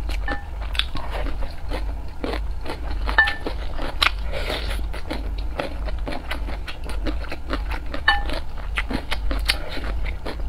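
Close-miked eating: wet chewing and crunching of food with many small mouth clicks. Wooden chopsticks clink against the dishes three times with a short ring.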